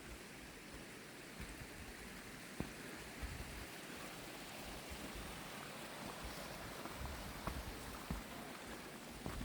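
Steady rush of a small stream or burn, growing a little stronger partway through, with a few faint footstep ticks.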